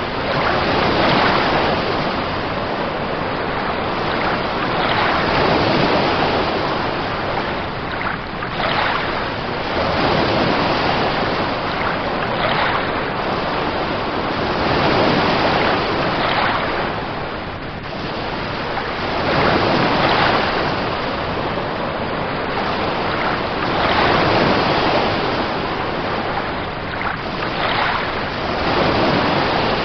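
Steady rushing of water, swelling and easing about every four seconds.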